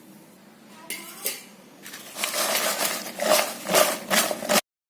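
Freshly fried, crisp potato chips rattling against a bowl as it is shaken in several quick tosses to coat them with chilli powder and salt; the sound cuts off suddenly near the end.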